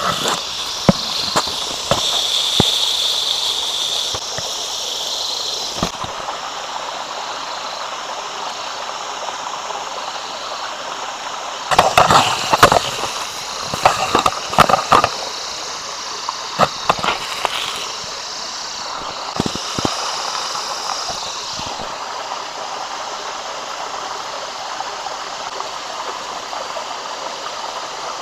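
Beef steak sizzling on an outdoor grill: a steady hiss with many sharp pops and knocks, thickest about twelve to fifteen seconds in.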